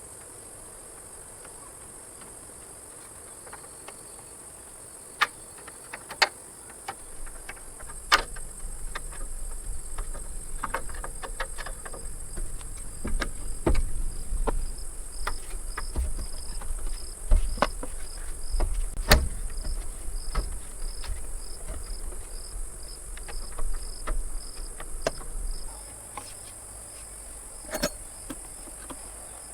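Crickets chirring steadily, with a pulsing chirp joining in midway. Scattered sharp knocks and clatter, and a low rumble that cuts off suddenly a few seconds before the end.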